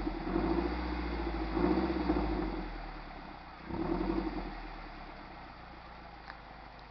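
2003 Toyota RAV4's four-cylinder engine revved through a new Magnaflow single-in dual-out cat-back exhaust. It takes three quick blips, then drops back to a steady idle. The headers ahead of the exhaust are leaking.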